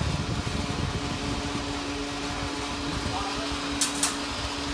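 Steady hum of a car cabin's engine and ventilation, with a low steady tone joining about a second in and two sharp clicks near the end.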